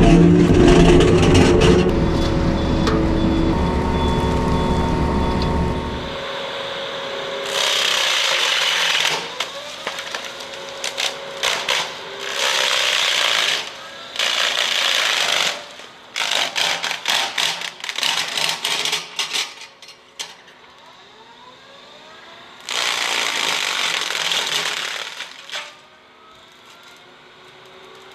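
Excavator-mounted flail mower cutting brush and small trees: a heavy machine runs loudly for the first few seconds, then comes a series of bursts of shredding wood, one to three seconds each, with scattered cracks and clicks in between.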